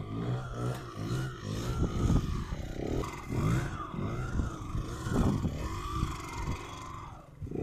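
Yamaha DT125R two-stroke single-cylinder dirt bike engine revving up and down again and again while the bike is held up in wheelies.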